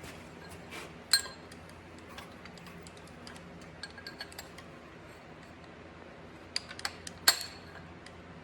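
Steel tools and transmission parts clinking and knocking together in scattered light taps, with two louder ringing metal strikes, one about a second in and one near the end, over a low steady hum.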